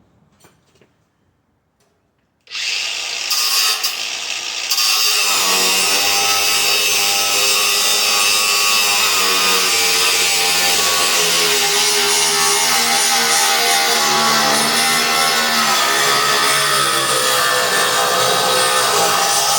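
Reciprocating saw starting about two and a half seconds in, then cutting steadily through the bolts that hold a stainless steel dishwasher's control panel, its pitch wavering as the blade bites.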